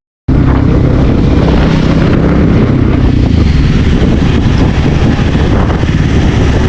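Bajaj Pulsar NS160 single-cylinder motorcycle engine running on the move, under heavy wind rush on the helmet-mounted action camera's microphone.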